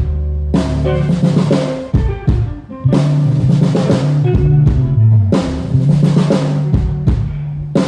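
A drum kit played with a band during a sound check: a cymbal crash roughly every two and a half seconds, with kick and snare hits over sustained low pitched notes.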